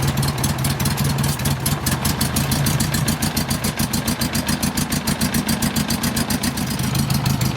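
1976 Honda Gold Wing GL1000's flat-four engine running steadily on choke just after a cold start, warming up with a little throttle held on. Its exhaust pulses come evenly through the newly fitted mufflers and sound nice and quiet.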